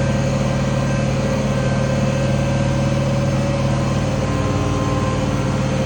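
International 1566 tractor's six-cylinder turbo diesel running steadily under load while pulling a field cultivator, a constant low drone with no change in pitch.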